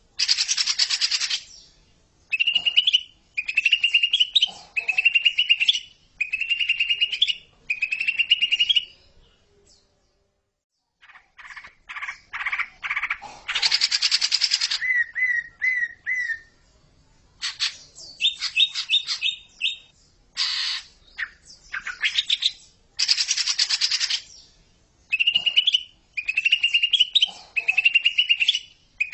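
Green leafbird (cucak ijo) singing a loud, fast chattering song in repeated phrases a second or two long, mixing rapid trills with harsher buzzy bursts. The song drops out completely for about a second roughly a third of the way in.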